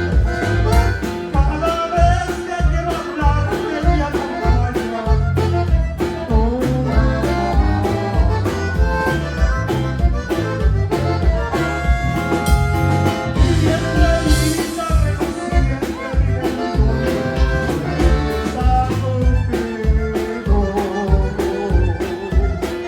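Live band music: an instrumental passage without vocals, with melody instruments over a steady beat of drums and bass.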